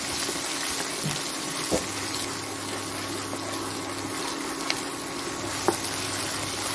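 Ginger-garlic paste and whole spices sizzling steadily in hot oil as they fry in a kadai, with a few sharp clicks as a wooden spoon stirs them.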